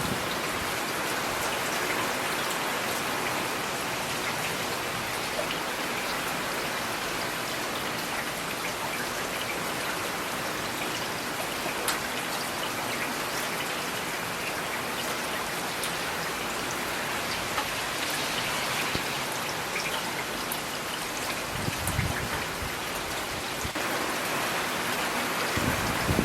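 Steady rain falling, with scattered single drops clicking close by. A brief low thump comes about 22 seconds in and again near the end.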